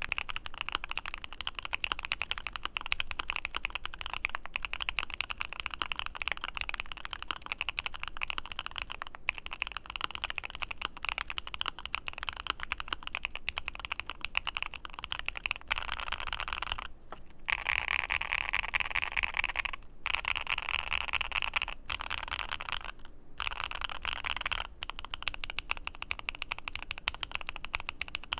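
Fast, continuous typing on a Createkeebs Luminkey75 gasket-mount aluminium mechanical keyboard, keys clacking as they bottom out, with a few brief pauses.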